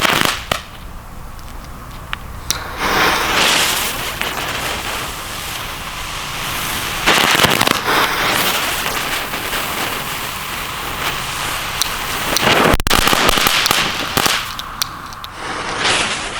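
Small Category 1 youth fireworks going off with dense crackling and sharp pops, swelling in several louder surges.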